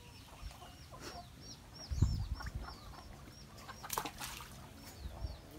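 A small bird, most like a chick, cheeping in a steady run of short high notes, about three to four a second. A low thump about two seconds in is louder than the cheeping, and there is a sharp click near the four-second mark.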